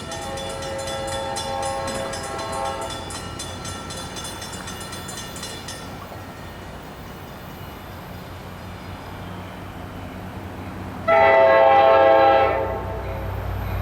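Locomotive air horn blowing: a fainter blast in the first few seconds, then a much louder blast about eleven seconds in that lasts around a second and a half.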